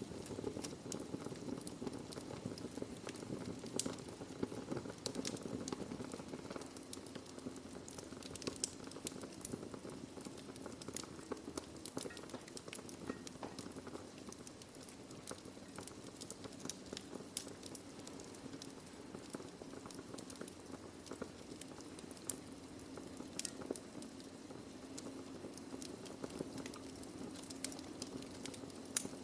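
Wood fire burning in a fireplace: a steady low rush of the flames with scattered sharp crackles and pops from the burning logs, one louder pop near the end.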